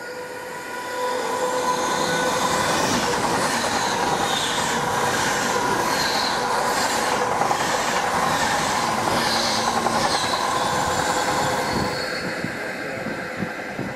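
Class 390 Pendolino electric train passing close by: a steady rush of wheels and running gear with a repeating clatter of wheels on the rails. It eases off near the end.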